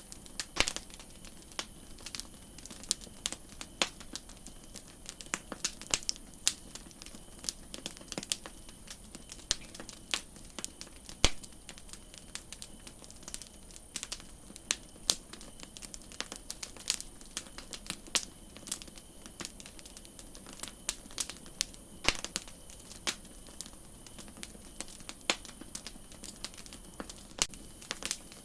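Wood campfire crackling: irregular sharp pops and snaps scattered over a low steady hiss of burning.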